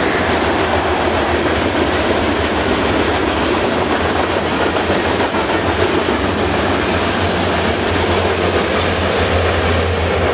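Covered hopper cars of a freight train rolling past at speed: a steady, loud rumble and clatter of steel wheels on the rails.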